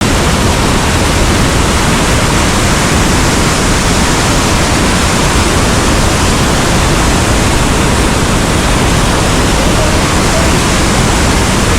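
Loud, steady roar of whitewater rushing down a steep mountain creek.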